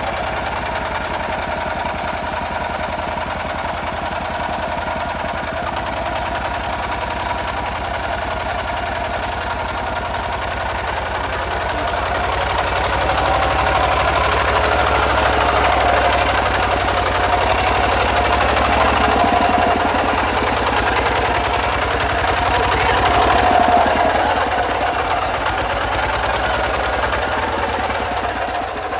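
Kubota RT 140 DI single-cylinder diesel engine running with a steady knocking beat, getting louder from about twelve seconds in to about twenty-four seconds in as it works to free the stuck tractor.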